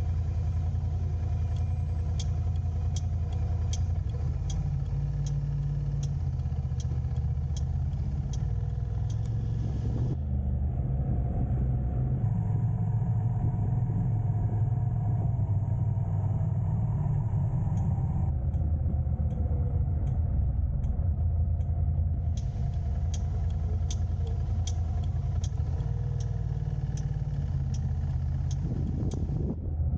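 Car driving on city roads: a steady low rumble of engine and road noise. For two stretches, one early and one late, a regular sharp ticking of about two to three ticks a second joins in.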